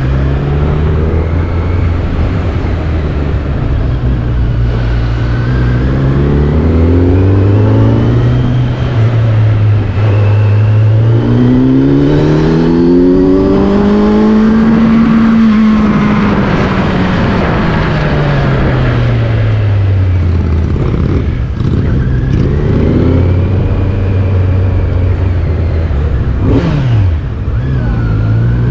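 Vehicle engine running while driving slowly: its pitch climbs steadily to a peak about halfway through, falls back over several seconds, then rises again, over steady road and wind noise.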